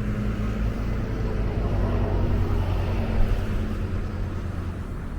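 Steady low engine rumble with a faint hum running through it.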